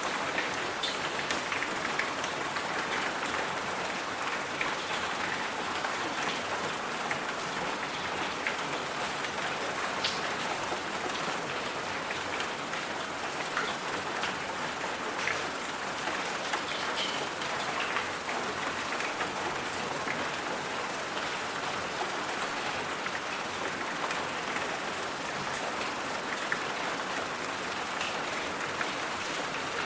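Steady rain: an even hiss with scattered faint drop ticks, unchanging throughout.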